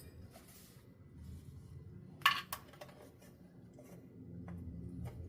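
Metal oil-filter wrench clinking against a stuck oil filter: one sharp metallic clink about two seconds in, followed by a few lighter ticks.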